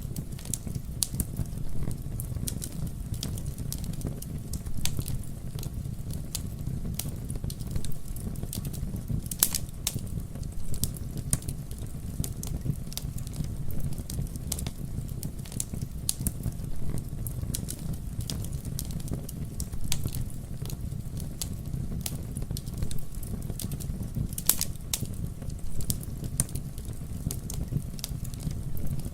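Campfire burning with a steady low rumble and many irregular sharp crackles and pops, a few louder snaps standing out.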